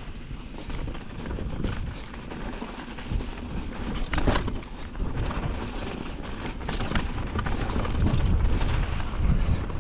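Mountain bike descending a dirt trail: tyres rumbling over rough ground, with rattling clicks and knocks from the bike as it hits bumps, the loudest about four seconds in.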